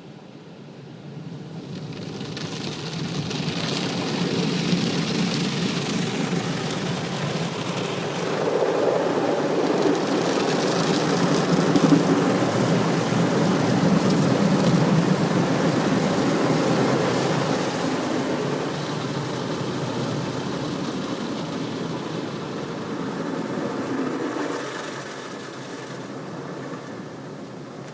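Automatic car wash running: a loud, steady rushing noise that builds over the first few seconds, is loudest through the middle and dies down near the end.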